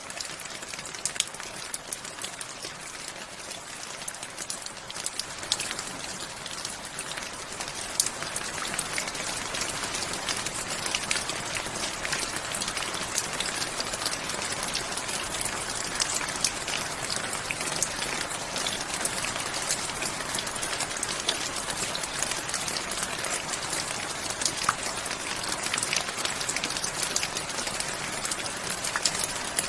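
Steady rain with many separate drops ticking sharply through it; it grows a little heavier several seconds in and then holds.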